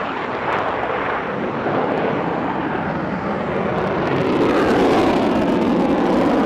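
Jet fighter engine noise, a dense rushing roar from an aircraft in flight that grows louder from about four seconds in.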